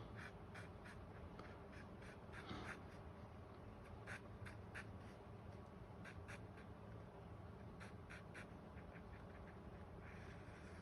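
Faint scratching of a pencil on paper: short, irregular strokes sketching a bird's outline, over a low steady room hum.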